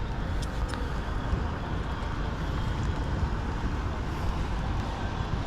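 Wind buffeting the microphone: a steady, fluctuating low rumble with a faint hiss above it and a couple of faint clicks about half a second in.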